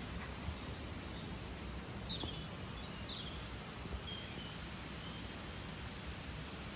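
Steady rush of falling water, with a few short, high bird chirps between about two and five seconds in.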